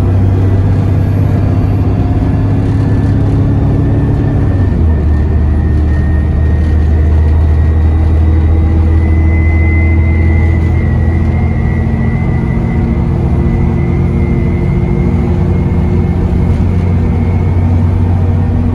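Bus diesel engine pulling under way, heard from on board, with a steady high turbo whistle above the engine note. About four and a half seconds in the engine note drops as the gearbox changes up.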